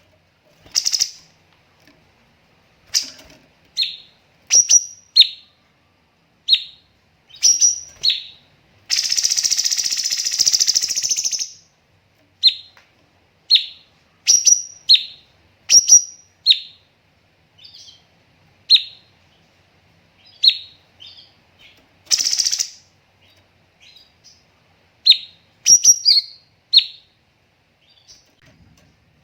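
Cucak cungkok songbird calling: short, sharp, high notes in irregular runs with pauses between them. About nine seconds in comes a dense, rapid burst of about two and a half seconds, and a brief one near twenty-two seconds.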